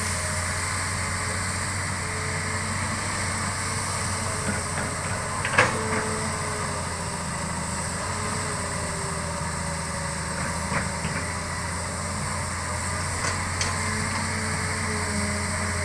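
Hitachi excavator's diesel engine running steadily, with one sharp knock about five and a half seconds in and a few fainter clicks later.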